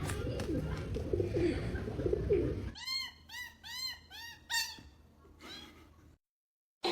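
Animal chirping: a quick run of about six short chirps, each rising then falling in pitch, after a few seconds of noisy background. The sound cuts off suddenly near the end.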